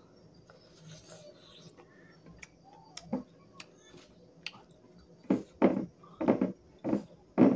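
A person eating close to the microphone: soft small clicks of chewing at first, then five loud, short chewing sounds about half a second apart in the last two seconds.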